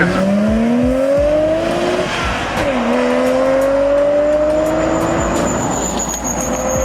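A car engine accelerating hard through the gears: its pitch climbs, drops sharply at each upshift, and climbs again, with two gear changes.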